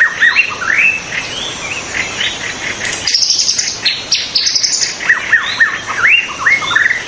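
White-rumped shama singing a fast run of rising whistled notes, with a burst of higher, thinner notes about three seconds in before the rising whistles return.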